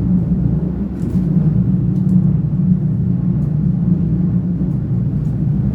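A CP UDD diesel railcar heard from on board while running: a steady, loud low drone from its engine and running gear, with a few faint clicks.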